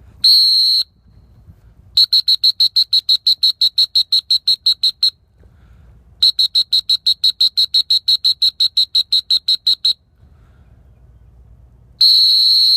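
Dog-training whistle blown by a retriever handler: a short single blast, then two long runs of rapid toots, about eight a second, and a longer single blast near the end. In retriever handling, rapid toots call the dog in and a single blast tells it to stop and sit.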